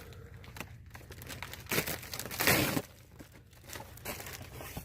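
Packaging crinkling as a replacement evap purge valve is handled: two short rustles, the louder about two and a half seconds in, with a few small clicks.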